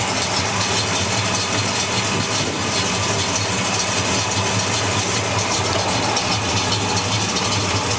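1968 Pontiac GTO's freshly built 400 V8 with a mild cam idling steadily through Flowmaster mufflers.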